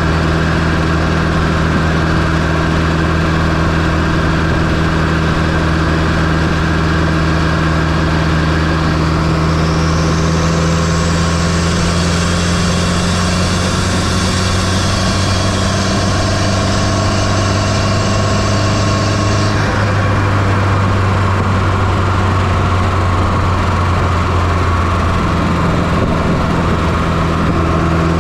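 1995 Fiat Coupé 2.0 16V turbo four-cylinder engine running steadily, heard up close from inside the engine bay. A higher hiss joins about a third of the way in and cuts off sharply about two-thirds through, then begins to return near the end.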